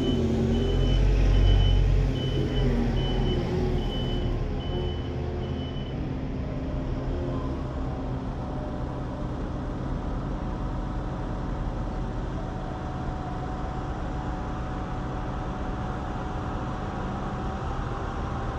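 Heavy farm machine's engine running, with a reversing alarm beeping repeatedly that stops about six seconds in; the engine is loudest in the first two seconds and then settles to a steady run.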